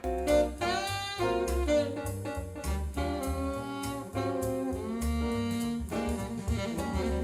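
A jazz track with a saxophone lead over bass, played back through 16 cm two-way component car speakers in a car-audio listening test.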